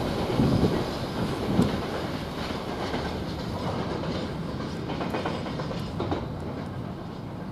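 Freight train wagons rolling past, wheels clicking over rail joints, the sound slowly fading as the train draws away.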